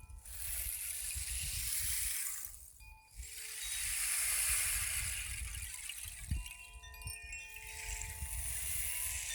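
Metal chimes ringing with several long, overlapping tones, most of them starting about six seconds in, over a swelling hiss and low rumble.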